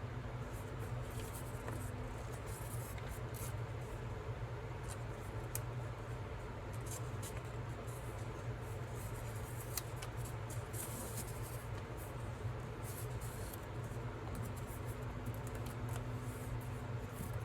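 Sheet of paper being handled, with short scratchy crinkles and creasing scrapes scattered throughout, over a steady low hum.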